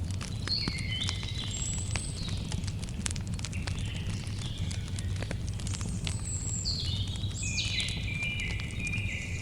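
Campfire crackling with many small pops over a steady low rumble. A songbird sings whistled phrases about a second in and again from about six seconds, the later phrase stepping down in pitch.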